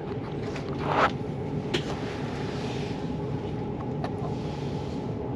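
Steady running noise inside the cabin of a Southern electric passenger train as it pulls away and rolls along the track, with a few sharp clicks.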